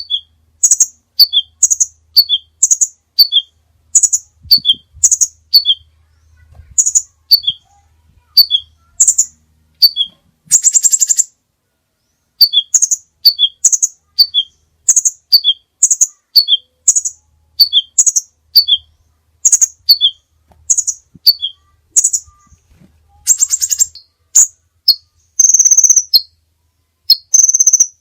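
A songbird singing a repeated phrase of short, sharp, high chirps about once a second, broken a few times by longer buzzy trills.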